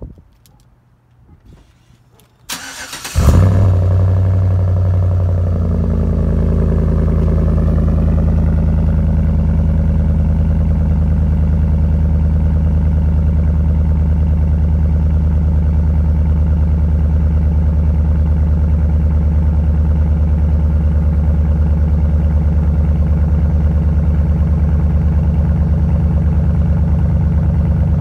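2013 Chevrolet Silverado's 5.3-litre V8 cold-starting through a Dynomax Bullet muffler in below-freezing weather: a brief crank about two and a half seconds in, the engine catches, and its pitch shifts a little over the next few seconds before it settles into a steady idle.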